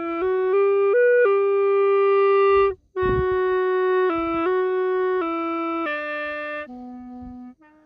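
Bamboo flute (khlui) playing a slow solo melody of held notes that step up and down. It breaks briefly for breath about three seconds in, and the phrase steps down to low closing notes near the end.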